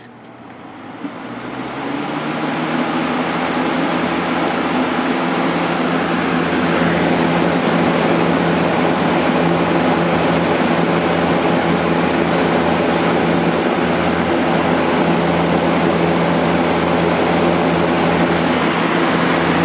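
Vintage Kel Aire Model 7000 box fan with a three-speed McMillan motor starting up on high speed, its motor freshly cleaned and oiled. The rush of air and the motor hum build over the first two or three seconds as the blade comes up to speed, then the fan runs steadily.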